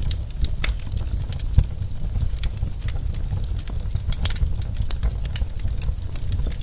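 Wood fire crackling in a clay fireplace: irregular sharp crackles and pops over a steady low rumble, with one louder pop about one and a half seconds in.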